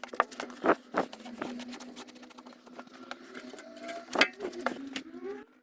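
Irregular knocks and clicks of objects being handled, over a steady low hum in a small room. The sound cuts off sharply near the end.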